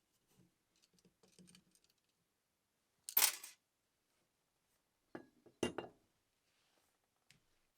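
Workbench handling noises from work on a sewing machine: faint small noises, then a short, loud rasp about three seconds in, then a few sharp clicks and knocks a couple of seconds later.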